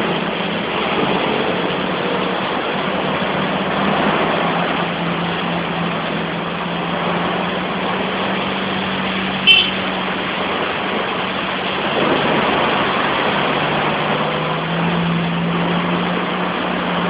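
Heavy rain pouring steadily, with a steady low hum underneath and one short sharp click about nine and a half seconds in.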